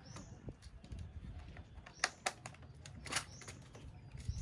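A few sharp, irregular clicks and taps, the loudest about two and three seconds in, over a low rumble, with short high chirps now and then.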